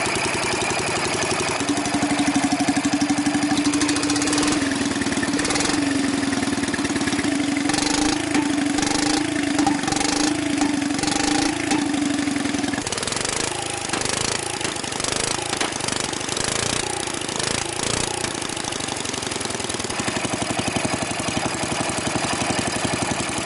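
Engine running very loudly through a Flowmaster Super 10 muffler held over its exhaust, with a steady hum on top through the first half.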